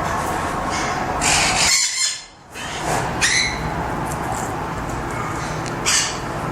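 Pet parrots squawking and calling in short outbursts, loudest about a second in, around three seconds and again near the end, over a steady low hum.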